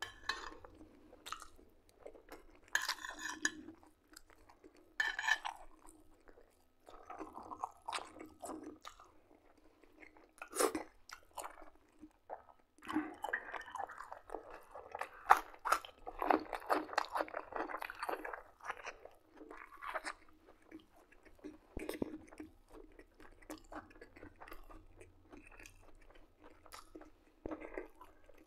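Close-up eating sounds: a man chewing mouthfuls of buckwheat and liver patties, with wet mouth noises and occasional crunchy bites, coming in irregular spells that are busiest about halfway through.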